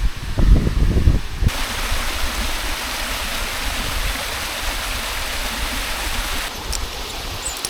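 Waterfall rushing, a steady even hiss of falling water that cuts in abruptly about a second and a half in. Before it, low irregular rumbling thumps.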